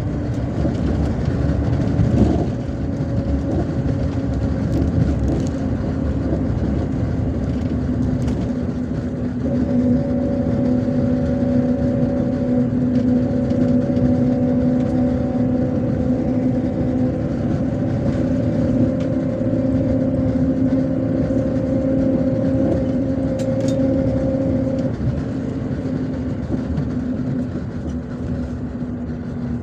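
Interior of a MAZ-257 bus under way: a steady drone from the engine with rumbling road noise, and a knock about two seconds in. The drone eases off and gets quieter near the end.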